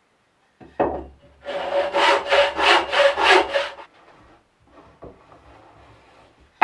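Hand saw cutting wood in a quick run of about seven or eight back-and-forth strokes, roughly three a second, after a single knock. Quieter handling of the wood follows, then a sharp knock at the end.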